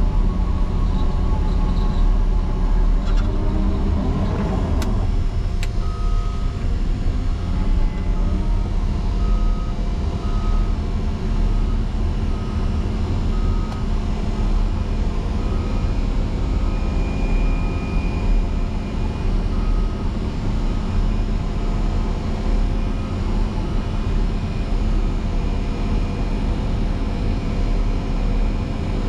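Caterpillar 140M motor grader's diesel engine running steadily under load while plowing snow, with a brief swing in engine speed about four seconds in. From about six seconds in, a high beeper sounds about once a second, typical of the grader's reverse alarm as it backs up.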